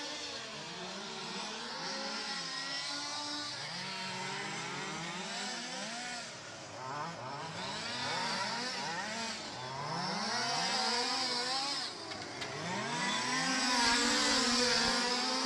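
Several radio-controlled racing trucks racing, their small motors overlapping and repeatedly revving up and falling back as they accelerate and slow for the corners.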